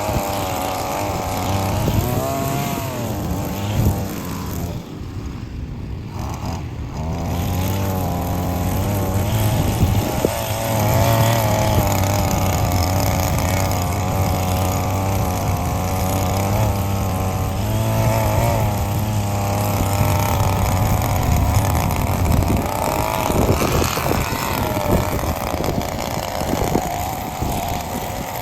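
Small petrol engine of grass-cutting equipment running under load, its speed wavering up and down as it cuts through overgrown grass. It dips briefly about five seconds in, then picks back up.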